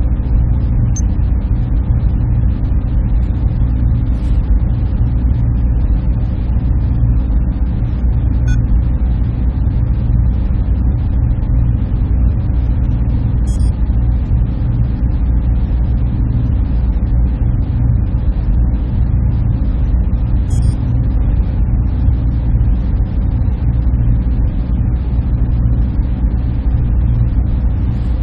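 Server room ambience: a steady, unbroken low hum and whir of cooling fans and air handling, with a few faint ticks now and then.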